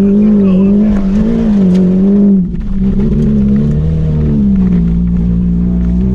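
An Opel Astra II's engine, heard from inside the cabin, runs hard under load with its revs wavering up and down. About two and a half seconds in it briefly cuts back, comes in again lower and climbs back up.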